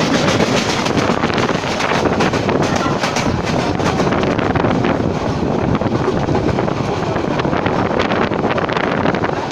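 Passenger train running along the track: a steady loud rumble with dense rattling and clacking, and wind buffeting the microphone.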